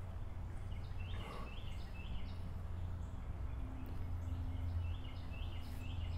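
A songbird singing two runs of short repeated notes, about three a second, over a steady low background hum.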